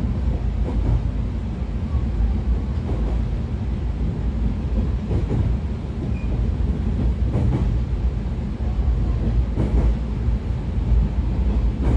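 Running noise heard inside a 113 series electric multiple unit motor car (MT54 DC traction motors, DT21B bogies) travelling at speed: a steady low rumble of wheels on rail, with a faint knock every two seconds or so.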